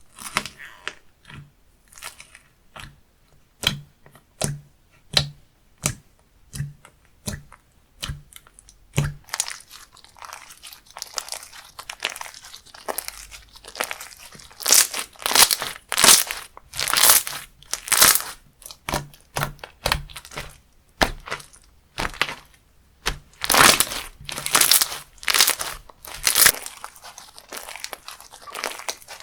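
Hands squishing and pressing a crunchy textured slime. First come sharp crackling pops under a second apart, then from about halfway louder, longer crunching squishes.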